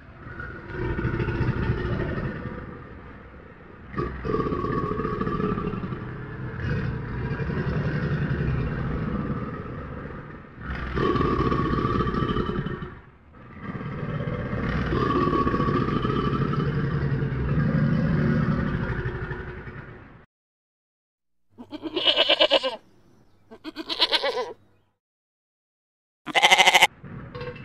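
A crocodilian's low, rumbling growls in several long stretches with short breaks. After a pause come three short bleats from a young goat or sheep kid, the last one the loudest.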